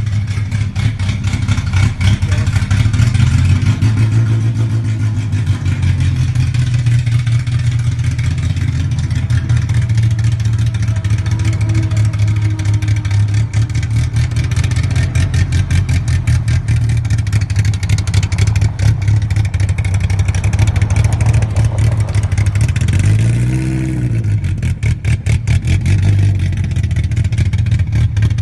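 Tofaş Doğan car engine running loudly and steadily, with a dense, rapid pulsing from the exhaust; about four-fifths of the way through its pitch briefly swells and falls back.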